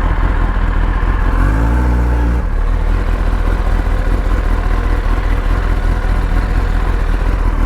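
Motorcycle engine running on the move, with heavy wind rumble on the microphone.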